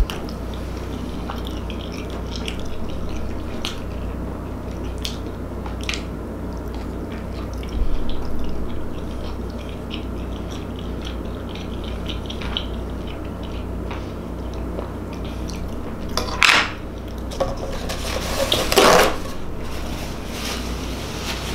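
Close-miked chewing and wet mouth sounds of a person eating a barbecue-sauced boneless rib, with small clicks and smacks. Near the end come two louder rustles of a paper towel being handled.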